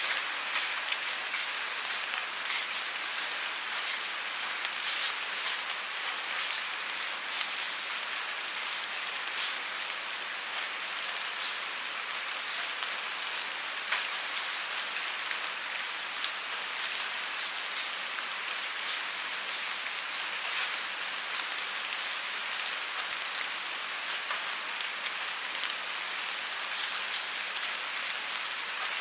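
Steady rainfall: an even hiss scattered with many small ticks of drops striking a surface, one sharper drop about fourteen seconds in.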